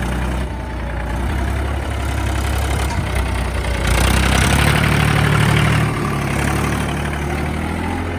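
Tractor engine running steadily as the tractor is spun round on one tyre, getting louder for about two seconds midway.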